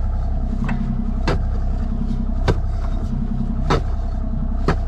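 An engine running steadily, with sharp strikes of a digging tool into the ground about once a second or a little slower.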